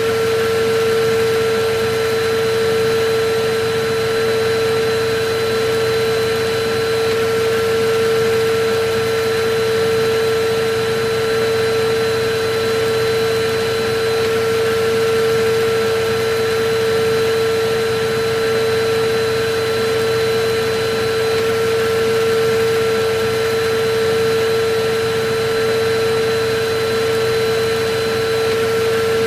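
Electric vacuum cleaner running steadily: a constant rushing of air under a strong, steady motor whine, swelling slightly every couple of seconds.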